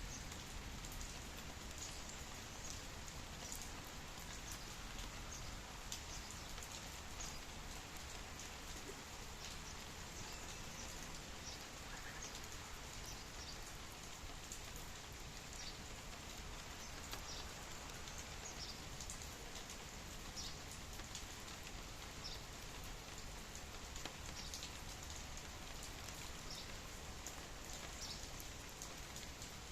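Steady rainfall, a soft even hiss dotted with the irregular ticks of individual drops hitting nearby surfaces.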